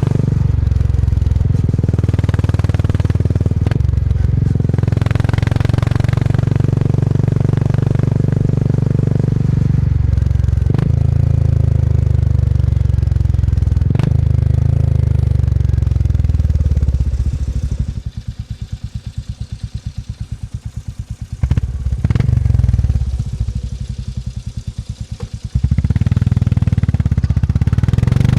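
Single-cylinder motorcycle engine running under load, with a few brief dips as the gears are changed. Twice the throttle is closed and the engine falls to quieter, separately heard firing pulses before it pulls again near the end.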